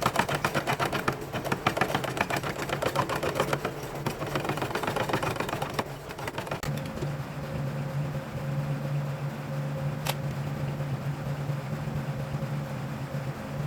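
A machine rattling with fast, even clicks for about six seconds, then settling into a steady low hum, with a single sharp click about ten seconds in.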